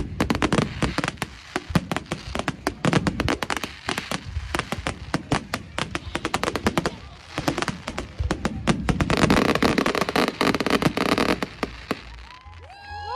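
Fireworks display: a rapid, dense barrage of bangs and crackles that eases off about a second before the end.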